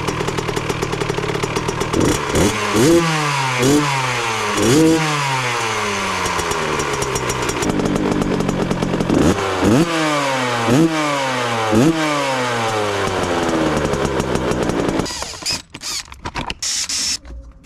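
Kawasaki KX65's small single-cylinder two-stroke engine idling, blipped three times in quick succession, idling again, blipped three more times, then shut off about fifteen seconds in, followed by a few light clicks and rattles.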